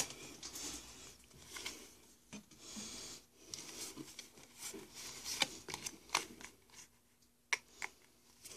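Faint rustling and a few light, sharp taps as trading cards are slid out of a freshly opened Pokémon booster pack and handled.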